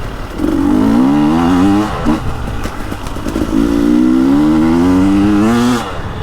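2021 KTM 300 XC-W Erzberg's 300 cc fuel-injected (TPI) two-stroke engine pulling hard under throttle twice. Its pitch climbs steadily through a short pull about half a second in and a longer one from about three seconds in, dropping back to a rough low note between them and at the end.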